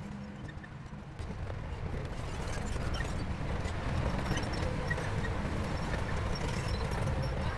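Shantui crawler bulldozer's diesel engine working with the clatter of its steel tracks, growing louder about a second in as it takes up load.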